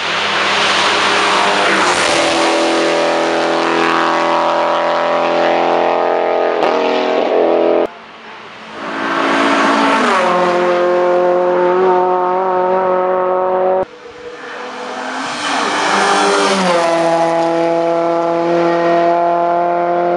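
Hillclimb race cars passing one after another at full speed: each engine note drops in pitch as the car goes by, then holds steady as it pulls away. The sound cuts off suddenly between cars, about 8 and 14 seconds in.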